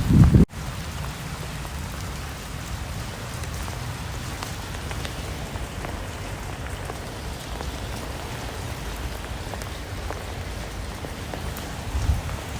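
Steady rain falling, an even hiss. About half a second in, an abrupt cut ends a louder low rumbling and thudding, which comes back near the end.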